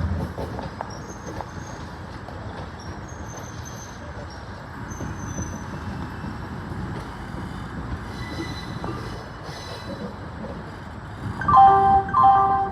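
Express passenger train running on the track with a steady rumble and faint high wheel squeal, then two short horn blasts near the end.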